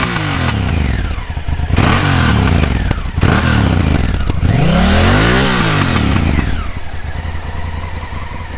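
Honda Africa Twin CRF1000L's 1000 cc parallel-twin engine on its stock exhaust being revved with several throttle blips, each rising and falling in pitch. The last and longest rev peaks about two thirds of the way in, then the engine settles back to idle.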